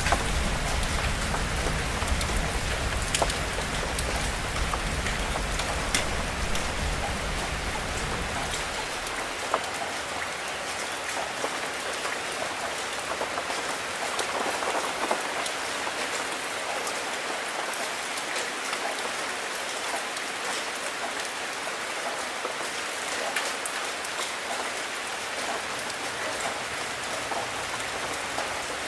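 Steady rain falling on leaves and surfaces, with sharp drips ticking now and then. A low rumble of thunder underneath stops about nine seconds in.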